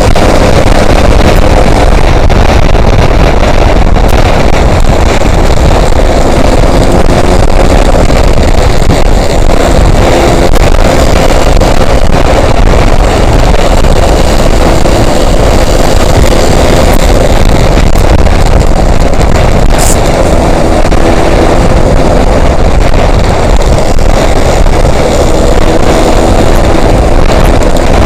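Yamaha RX-King two-stroke single-cylinder motorcycle engine running under way, mostly buried in heavy wind rush on the microphone. Its note fades in and out of the wind, coming through more clearly near the end.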